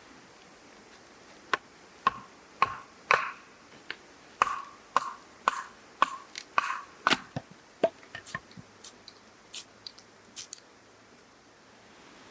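A run of sharp metallic clinks and clatters, about a dozen over several seconds and bunched in the middle, some ringing briefly: parts of a steel fire pit being handled and fitted together.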